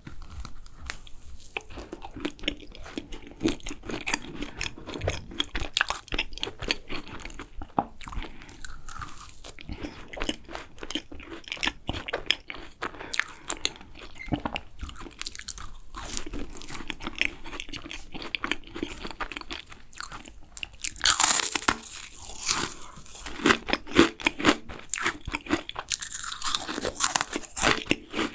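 Close-miked eating sounds of macarons: crisp bites and chewing, with many small irregular clicks of the mouth. There are two louder, longer crunching stretches in the last third.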